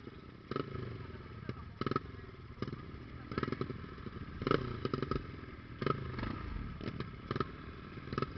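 Trail motorcycle engine running, with a string of short, sharp bursts of noise over it.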